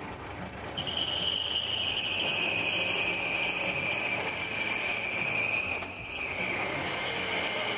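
1963 Chevrolet Suburban's inline-six engine running on its first start in 20 years, with a steady high-pitched whistle that sets in about a second in and drops slightly in pitch near the end. The owner puts the whistle-type noise down to a vacuum leak.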